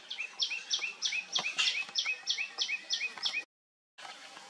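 A bird calling a quick run of about ten repeated two-part notes, each a high note followed by a lower hooked note, roughly three a second; the sound cuts off suddenly about three and a half seconds in.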